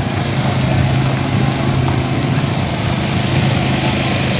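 A car engine running steadily at low revs, an even unchanging note.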